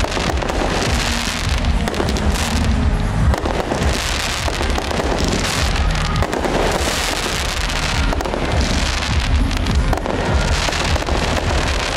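Fireworks going off in quick succession: a dense run of bangs and crackles over a low rumble.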